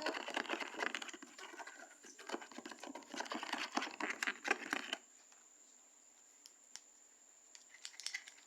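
Sped-up crackling, scraping sounds of slime ingredients being stirred in a bowl, cutting off abruptly about five seconds in. After that there is only a faint steady high tone and a few light clicks.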